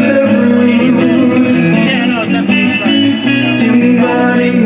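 Live band music with guitar.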